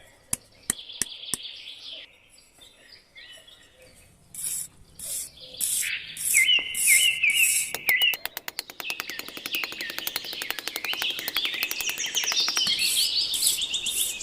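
Several birds chirping and calling in short repeated notes. From about eight seconds in, a rapid clicking trill joins them.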